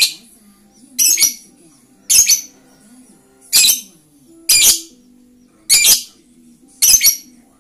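Lovebird giving a series of shrill, sharp calls, seven in all, about one a second.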